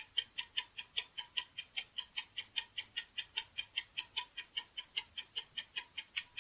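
Fast clock-tick sound effect, about five ticks a second, counting down the answer time in a quiz.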